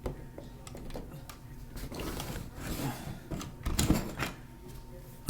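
Light clicks, knocks and rustles of plastic toy monster trucks and track being handled, with a louder clatter about four seconds in.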